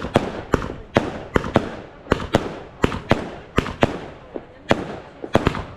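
Fireworks going off: a rapid, uneven series of sharp bangs, about three a second, each with a short echoing tail.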